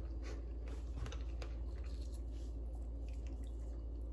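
A person chewing and biting into fresh fruit dipped in a cream-cheese dip, with small wet clicks and crunches, over a steady low hum.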